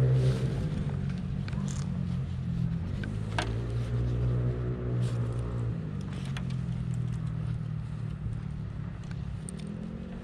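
A vehicle engine running steadily at low revs. Its pitch wavers a second or two in and settles again, and it slowly grows quieter toward the end, with a few faint clicks over it.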